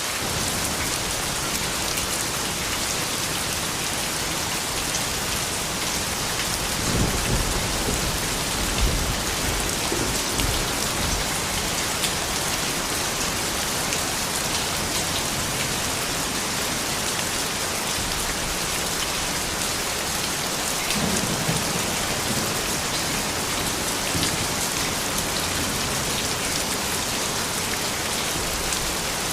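Steady rain falling and pattering on surfaces, with low thunder rumbles swelling about a quarter of the way in and again past the two-thirds mark.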